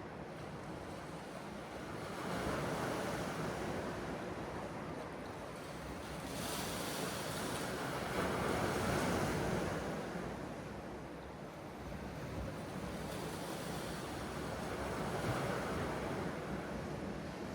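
Sea waves breaking and washing ashore, a steady rushing that swells and falls back every few seconds.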